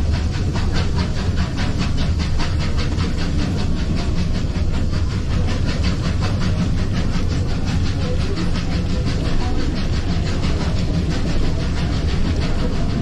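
Steam-hauled heritage train running at speed: a steady low rumble with a fast, even beat running through it.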